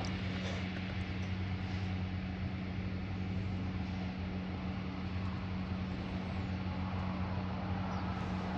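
Steady machinery hum with a constant low buzz and no distinct events.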